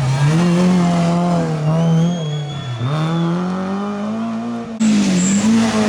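Rally car engine revving hard, its pitch climbing and falling as the driver changes gear and lifts off. About three seconds in the revs drop and build again, and near five seconds the sound changes abruptly.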